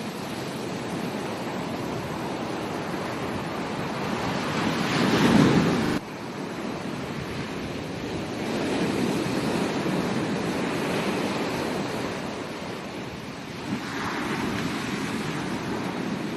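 Ocean waves breaking and washing onto a beach, the surf swelling and easing in turn. The loudest wave builds about four seconds in and cuts off sharply two seconds later, and more waves swell up later on.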